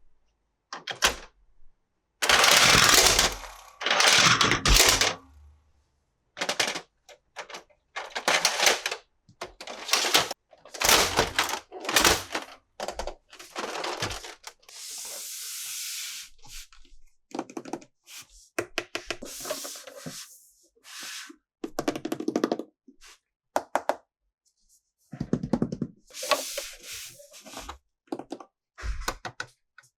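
Plastic toy pieces and packaging being handled: irregular clicks, knocks and rustles, with a couple of longer rustling or scraping passes a few seconds in and a steady scrape about halfway through.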